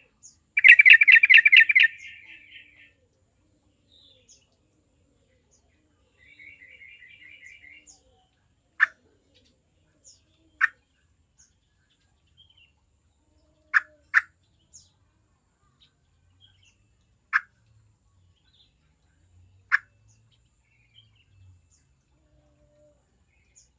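Yellow-vented bulbul calling: a loud, fast bubbly chattering phrase about half a second in, a softer chatter around six seconds, then sharp single call notes every couple of seconds.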